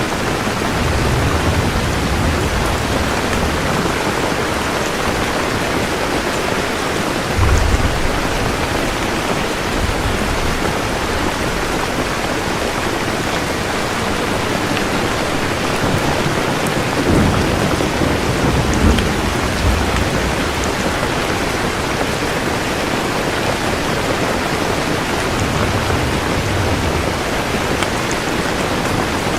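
Steady rain falling, with low rolls of thunder rumbling several times underneath, the strongest about a third and two-thirds of the way through.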